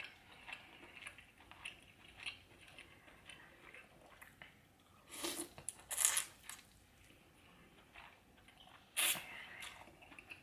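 Close-up eating sounds: soft wet chewing and squishing of buttery seafood with small clicks, then three louder, short hissy bursts about five, six and nine seconds in.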